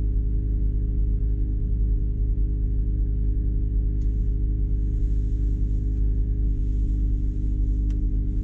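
BMW E60 M5's V10 engine idling steadily while it warms up after a cold start, at a fast idle of around 1100 rpm.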